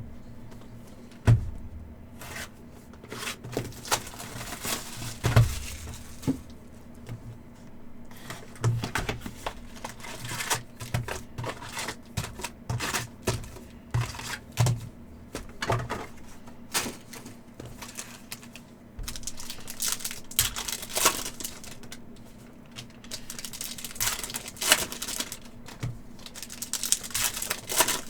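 Trading cards being handled on a table: many irregular clicks, taps and rustles as cards are sorted, slid and set down, with a couple of louder knocks near the start.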